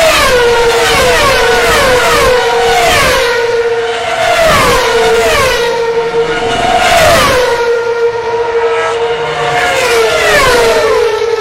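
Vehicles passing at speed one after another, each engine note sliding down in pitch as it goes by and settling onto a steady drone.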